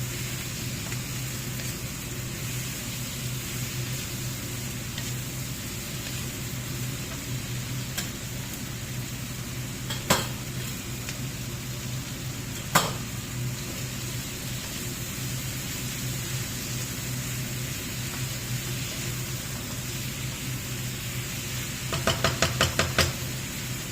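Food sizzling in a hot pan over a steady low hum, with two sharp clicks of utensil on cookware along the way and a quick run of about eight clicks near the end.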